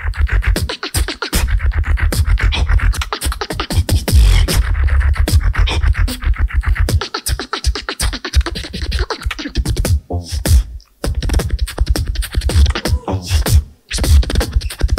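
Solo beatboxer performing: a fast, dense rhythm of sharp mouth clicks over heavy bass, broken by two short gaps about ten and fourteen seconds in.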